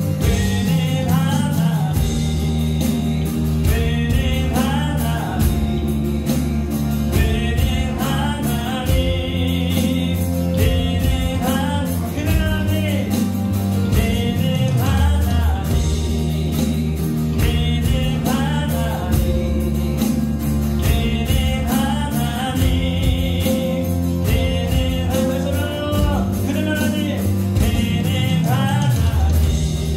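Live worship band playing a contemporary praise song: acoustic guitar, keyboard, bass guitar and electronic drums under a sung melody, with a steady beat.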